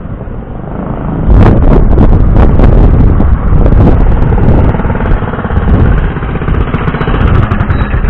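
Predator 212 single-cylinder mini bike engine running through a Robertson torque tube header pipe, with the flipper muffler set to restrict the exhaust. The engine is louder from about a second in.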